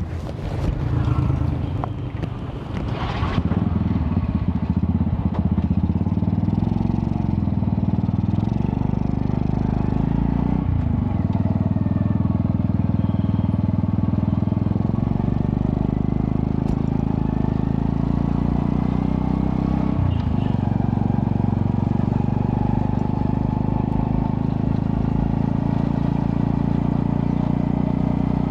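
Honda Astrea Prima-based 110cc motorcycle engine running through a custom underbelly exhaust with resonator, a steady exhaust note with two brief dips about 11 and 20 seconds in. Some clattering in the first few seconds.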